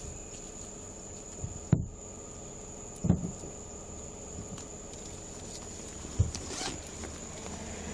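Three short, sharp knocks, about a second and a half and then three seconds apart, with a brief rustle after the last, over a steady faint high-pitched whine and low hum.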